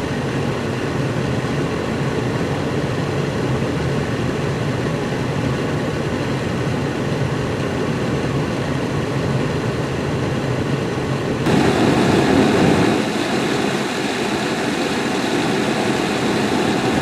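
Steady engine and road noise inside a car's cabin as it drives on an ice-covered road in slow traffic. About eleven seconds in, a louder hiss comes in and then eases off.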